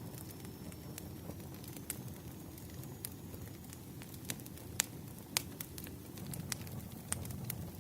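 Firewood burning: a steady low rush of flames with irregular sharp crackles and pops, two louder pops a little after halfway.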